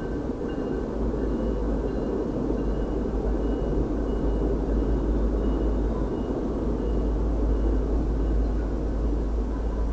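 MBTA commuter rail train rolling past, a steady rumble of coaches on the track that grows a little louder about a second in, heard from inside a parked vehicle.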